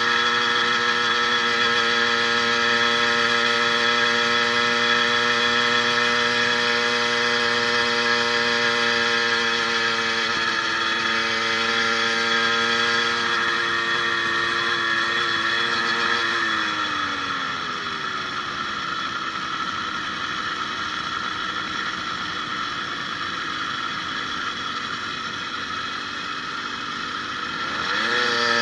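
80cc two-stroke motorized bicycle engine, fitted with a new needle-bearing wrist pin, running steadily under way. About halfway through its pitch drops and it runs lower and quieter as the throttle eases off, then it revs back up near the end.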